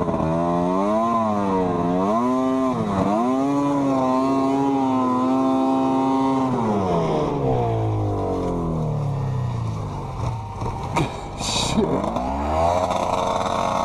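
Off-road vehicle engine revving up and down twice, then held at a steady high rev for about three seconds before winding down. A few sharp knocks follow, and the engine revs up again near the end.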